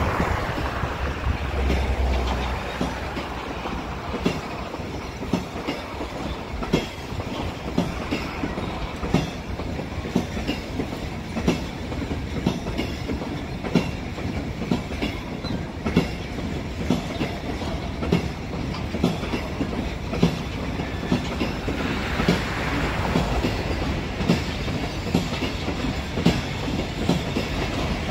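Freight wagons of a passing train rolling by, with a steady rumble and regular clickety-clack as the wheelsets cross rail joints, roughly one clack a second.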